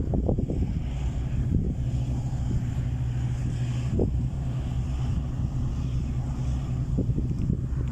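A steady low engine hum with some wind noise, broken by a few faint short knocks.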